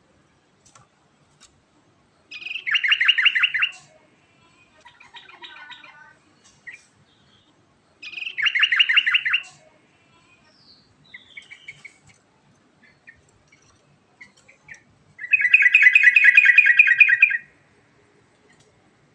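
Yellow-vented bulbul (trucukan) singing: three loud, rapid bubbling phrases of about one and a half to two seconds each, the last the longest, with softer chattering notes between them.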